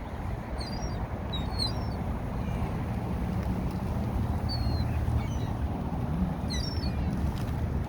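Birds chirping: scattered short, high calls, some in quick clusters about half a second and six and a half seconds in, over a steady low rumble.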